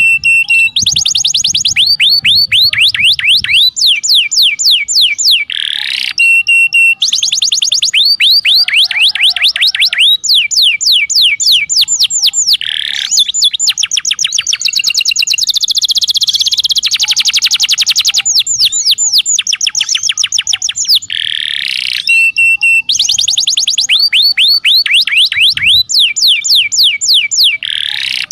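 Canary song from a masteran (song-training recording): fast rolling trills of short whistled sweeps, one trill after another. The same sequence of phrases repeats about every seven seconds, as in a looped recording.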